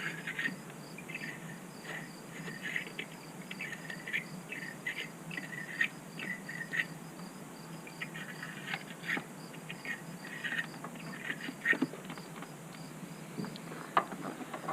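Wire-brush battery terminal cleaner scrubbing the inside of battery cable clamps: a run of short rasping strokes, with a few sharper knocks near the end.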